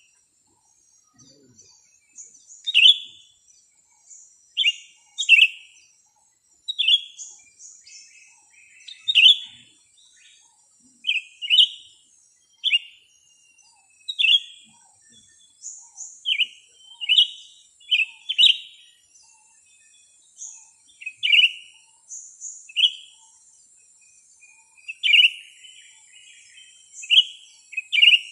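A small songbird chirping over and over: short, sharp single or paired chirps at uneven gaps of one to two seconds, under a faint, thin, high-pitched background trill.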